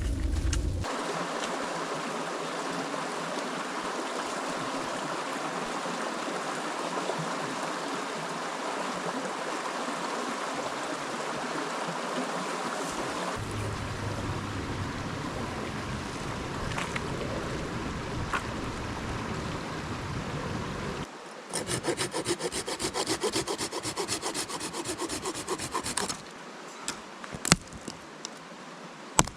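Steady rushing of river water for about twenty seconds, then a hand saw cutting wood with quick back-and-forth strokes for about five seconds, followed by a few sharp knocks of wood.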